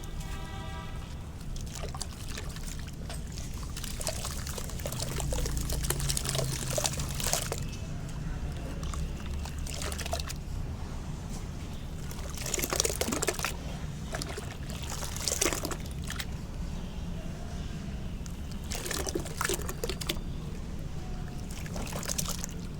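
Soft sand-cement lumps dipped in water and crumbling apart, heard as irregular bouts of crackly pouring and trickling water noise.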